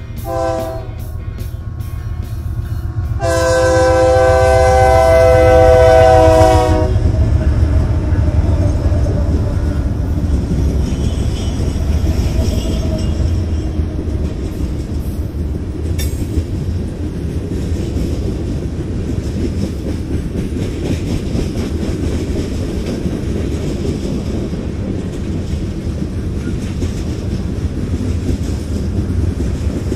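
BNSF freight train's diesel locomotive horn sounds a brief note, then a long chord-like blast of about three seconds, the close of a grade-crossing horn signal. Then the locomotives rumble past and the freight cars roll by with steady wheel-on-rail noise and a little clickety-clack.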